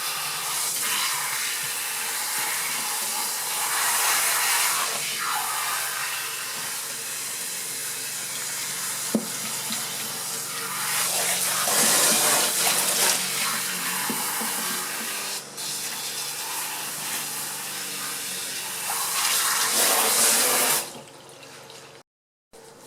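Revlon One-Step hair dryer brush running: a steady rush of air over a motor hum, growing louder and softer in waves. It cuts off shortly before the end.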